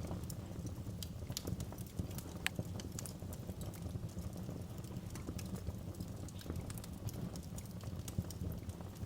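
Wood fire crackling in a fireplace: irregular sharp pops and snaps over a low, steady rumble of flame.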